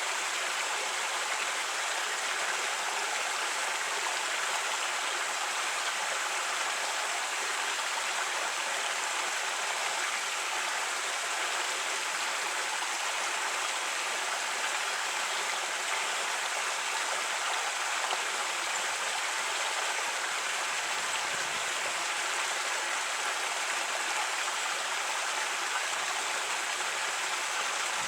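Creek water running over rocks: a steady rushing babble.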